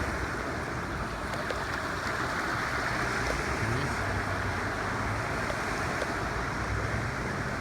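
Steady rush of flowing river water, with a low rumble coming in about halfway.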